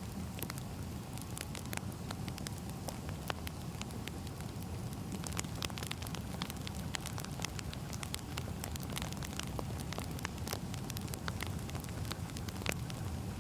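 Firewood burning: a continuous crackle of sharp, irregular pops and snaps over a steady low rumble.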